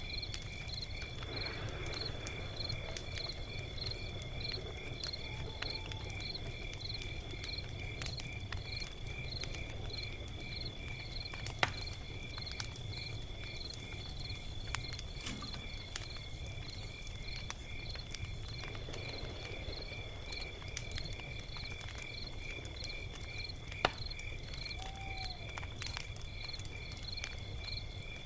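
Log fire crackling with a few sharp pops, under a steady high trill of insects chirping in an even, regular pulse, with a low steady rumble beneath.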